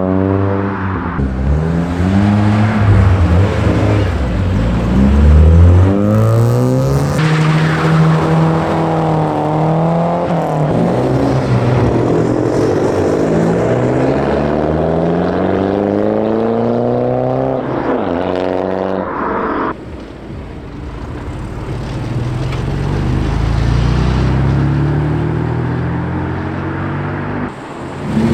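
Several cars in turn driving past, their engines revving up and down as they accelerate away.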